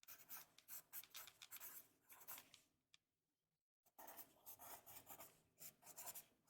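Pencil writing on paper, close to the microphone: quick, faint scratchy strokes in two runs, with a pause of about a second in the middle.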